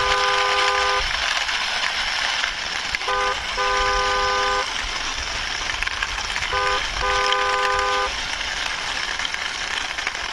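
Car horn honking in a short toot followed by a longer toot, repeated three times about three and a half seconds apart, over a steady hiss.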